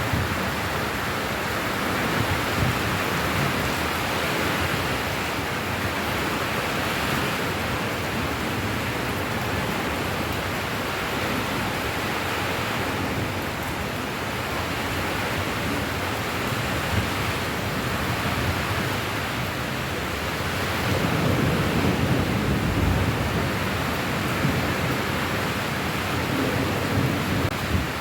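Steady heavy rainfall, an even wash of noise, with a low rumble swelling up about three quarters of the way through.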